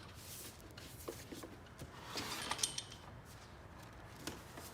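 Plastic bumper parts being handled and fitted: a few light clicks and knocks, with a brief scraping rub about two seconds in.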